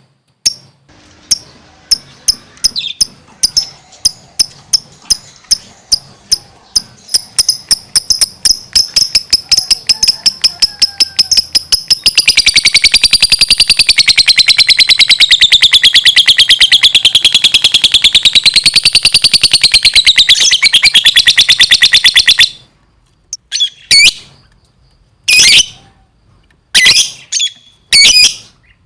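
Lovebird singing: a string of sharp chirps that speed up over about ten seconds into a long, very rapid trill that wavers up and down in pitch for about ten seconds and then stops abruptly. A few short bursts of chirping follow near the end.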